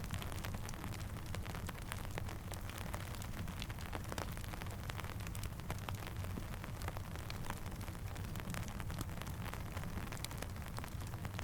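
Steady rain falling and pattering, mixed with a crackling campfire: a constant hiss over a low rumble, dotted with many small sharp pops and ticks.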